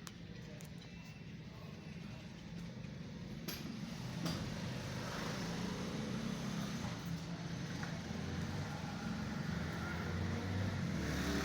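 Motor vehicle running with a low engine and road rumble that grows louder after about four seconds, with a few sharp clicks.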